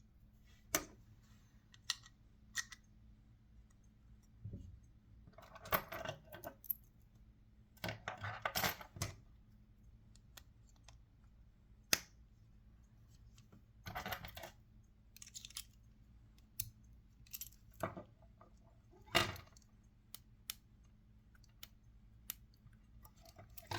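Small clicks and short clattering rattles, several scattered bursts, from a Mercedes-Benz key fob and its coin-cell battery being handled during a battery change.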